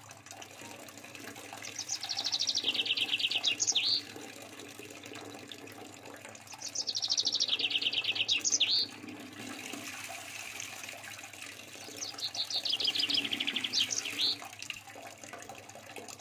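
A songbird singing the same phrase three times, about five seconds apart. Each phrase is a fast, high trill that steps down in pitch and ends in a quick slurred note.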